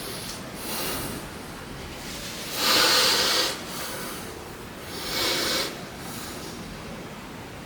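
A person breathing hard after exertion: three forceful breaths, the middle one loudest and about a second long.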